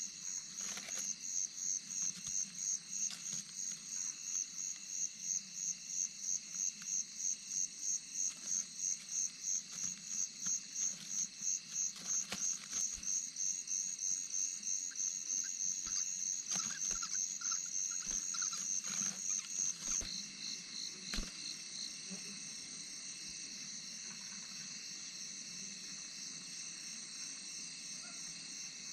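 Insects chirping at night in a steady high-pitched pulse, about two and a half chirps a second. About two-thirds of the way through the pulsing stops and the high sound carries on as a continuous trill.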